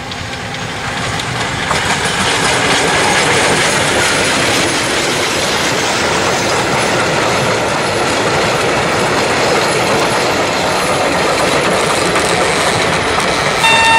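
Passing train of vintage passenger coaches running close by: a steady clatter and rumble of wheels on the rails with clickety-clack over the rail joints. It grows louder over the first couple of seconds as the coaches draw level.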